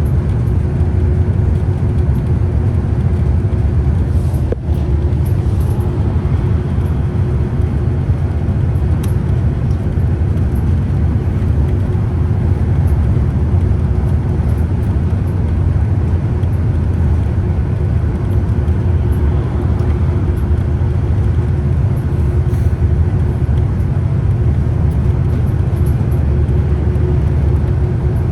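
Scania Citywide city bus driving at a steady pace: continuous low engine and road rumble with a steady whine. A brief click and dip in level come about four and a half seconds in.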